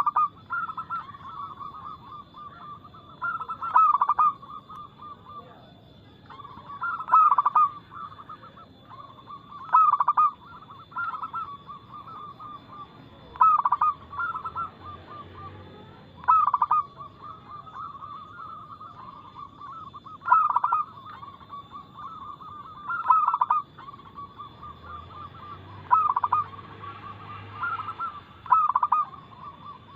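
Zebra doves (perkutut) cooing: a continuous rolling trill of coos at a fairly steady pitch, broken by a loud accented coo phrase about every three seconds.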